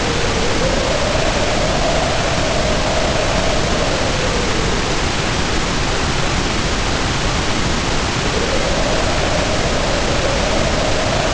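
Heavy rain pouring with a hollow wind howl over it, the howl slowly rising and falling in pitch. The howl drops away for a few seconds in the middle and swells back near the end, while the rain keeps up without a break.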